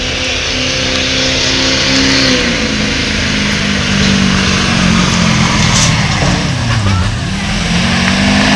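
A pulling vehicle's engine at high revs under heavy load during a pull run. Its pitch sags as the engine bogs, dipping lowest about seven seconds in, then climbs again before stopping abruptly at the end.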